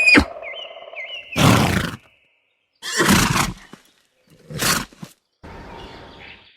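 Horse sounds: a short falling call at the start, then three short, breathy blasts a second or so apart. Birds chirp faintly in the background.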